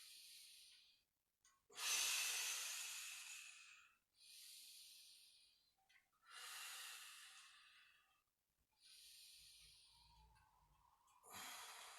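A person breathing slowly and deeply during a yoga stretch: about six breaths, each a soft hiss that fades away, the loudest about two seconds in.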